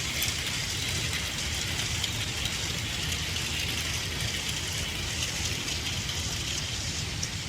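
Battery-powered Plarail toy train running on plastic track: a steady whir of the small motor with the rattle and clicking of many plastic wheels from a long train of coaches.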